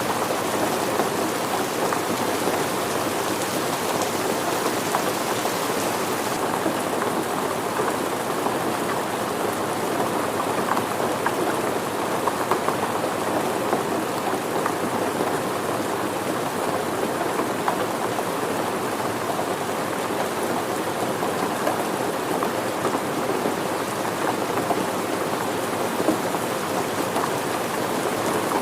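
Steady rain falling, a dense, even patter of drops. The highest hiss eases slightly about six seconds in.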